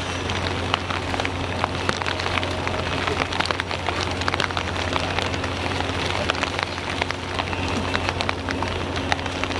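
Heavy rain falling, many separate drops ticking sharply close by over the steady wash of the downpour, with a steady low hum underneath.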